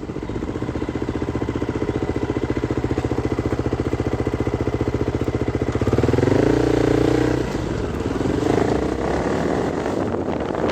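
Vehicle engine running at a steady, pulsing low speed, then revving up louder about six seconds in and dropping back over the next couple of seconds, with wind noise on the microphone.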